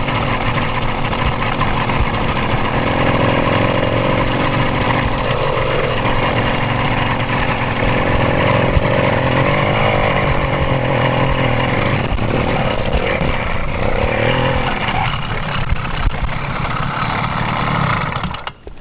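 Stock 66cc two-stroke engine of a motorized bicycle running as the bike rides along, its pitch wavering with the throttle. Just before the end the engine sound drops away sharply.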